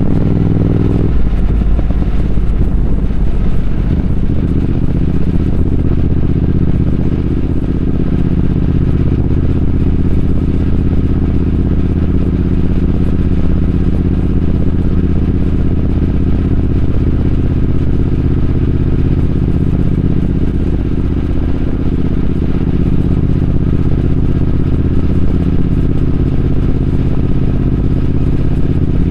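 Triumph Speed Twin 1200's parallel-twin engine running steadily while riding. Its note changes about a second in, then holds even.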